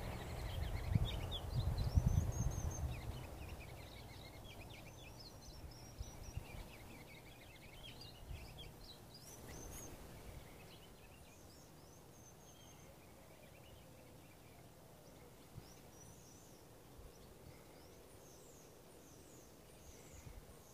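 Small songbirds chirping and twittering in short high phrases, faint, with a low rumble in the first few seconds that fades away.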